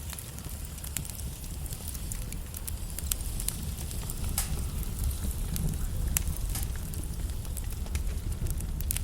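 Wood logs burning in a fireplace, crackling with frequent sharp pops over a steady low rumble.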